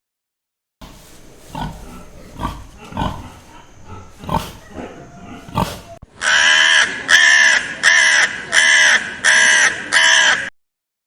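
An animal grunting in about six short, low bursts, then six loud, harsh calls in quick succession, about two every three seconds.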